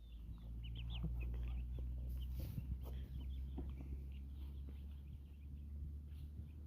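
Chickens clucking softly and giving short high chirps while foraging, over a steady low rumble.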